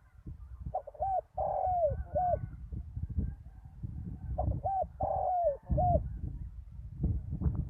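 Spotted dove cooing: two phrases of several arched coos, the first about a second in and the second about four and a half seconds in, over a low rumbling noise.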